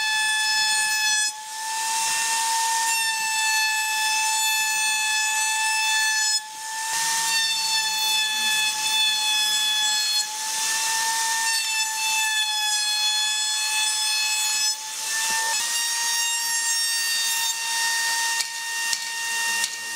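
High-speed electric power tool working wood: a steady high whine that dips briefly a few times, with patches of cutting hiss.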